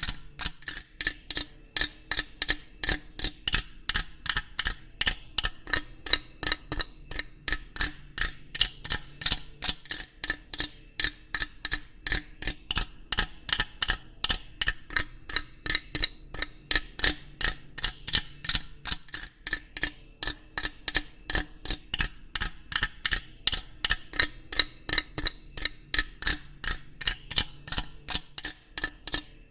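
Steady, regular mechanical ticking, a few sharp ticks a second without a break, over a faint low background hum.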